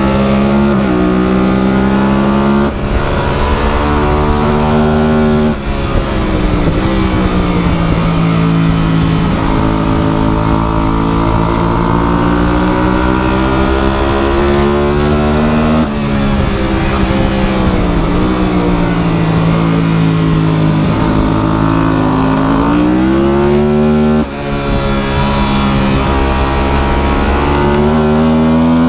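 Vehicle engine running hard, its pitch slowly rising and falling, with a brief drop in level four times.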